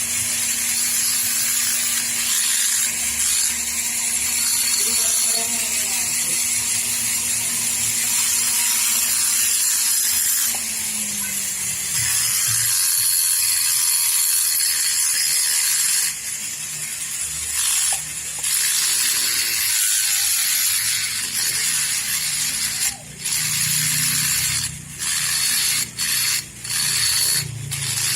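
A tool rasping against metal in a steady, high-pitched scrape for the first half. In the second half it breaks into short stop-start passes with brief gaps.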